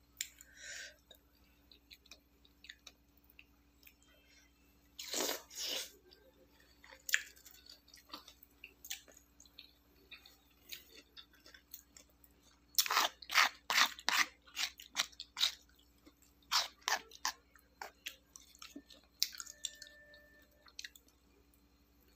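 A person eating close to the microphone: scattered quiet chewing, a short noisy burst about five seconds in, then a run of crisp crunching bites from about thirteen seconds in, followed by a few more chews.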